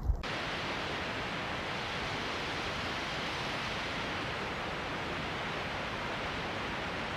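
A short thump right at the start, then a steady, even rushing noise that begins abruptly and holds at one level without gusts or rhythm.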